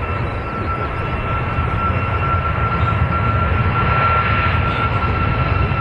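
Airliner's engines running: a steady high whine over a broad low rumble, growing gradually louder.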